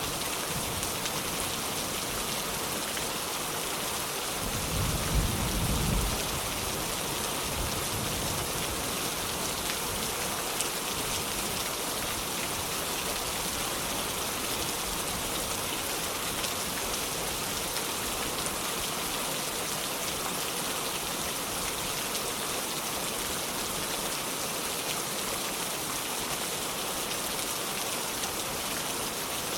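Heavy rain falling steadily, a dense even hiss of drops. About four to six seconds in, a low rumble of thunder rises and fades under it.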